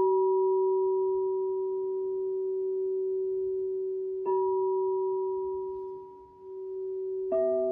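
Crystal singing bowls struck and ringing with a long, steady sustain: one struck at the start, again about four seconds in, and near the end a different bowl with other pitches joins the ringing.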